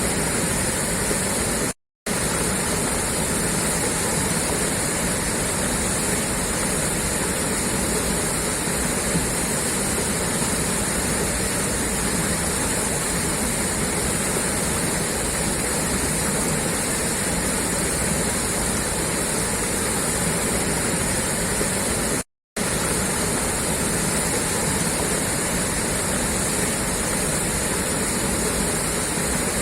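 Water gushing steadily out of a pipeline outlet, a dense unbroken rush. The sound cuts out briefly twice.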